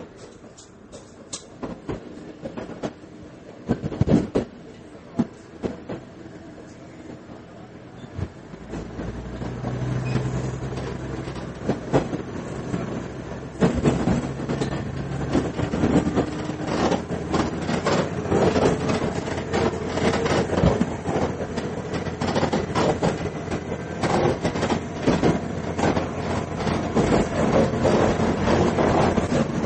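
Diesel railcar heard from inside the cabin: quiet with a few scattered clicks at first, then about eight seconds in the engine opens up with a steady low drone as the train pulls away, and the rolling noise and clicking of wheels over rail joints build as it gathers speed.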